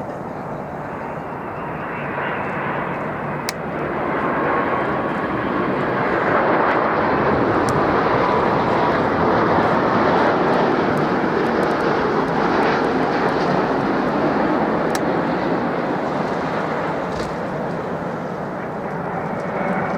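Jet airliner passing close, its engine roar swelling to a peak about halfway through and then slowly fading, with a faint whine riding on it as it approaches.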